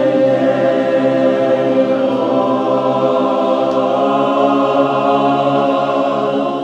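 A chorus of voices holding one long, steady chord on a sustained vowel during a vocal warm-up.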